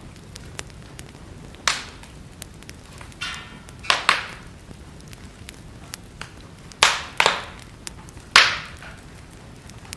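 Wood fire crackling in a fireplace: many small ticks over a low steady rumble, broken by about six loud sharp pops, with a short hiss just before the two pops about four seconds in.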